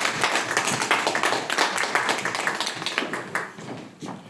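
Audience applauding in a hall, dying away near the end.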